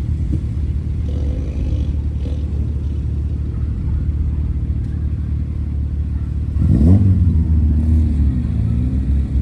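A car engine running with a steady low rumble, its revs rising about seven seconds in.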